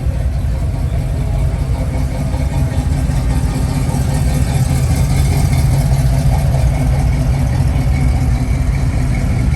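Car engine running with a deep, steady exhaust rumble as a car rolls in at low speed, slightly louder in the middle.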